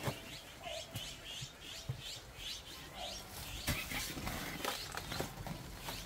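A bird calling a fast series of short falling chirps for the first few seconds, with scattered sharp clicks and knocks.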